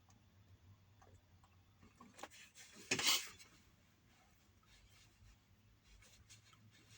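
Faint rubbing and light clicks, with one louder short scrape or rustle about three seconds in.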